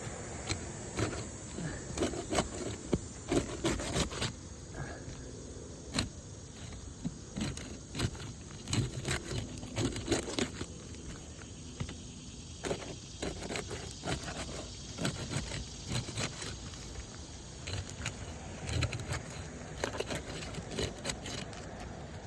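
Roof shingles being worked loose and lifted, with repeated sharp clicks, scrapes and crackles at an irregular pace.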